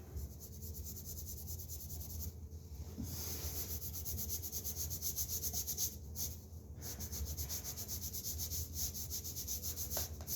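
Damp sponge scrubbed rapidly back and forth over dried drywall joint compound, sponge-sanding the patch smooth, with a short pause twice.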